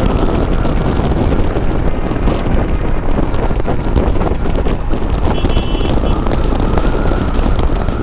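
Wind buffeting the microphone over the steady running noise of a moving vehicle in traffic. A brief high beep sounds about five and a half seconds in.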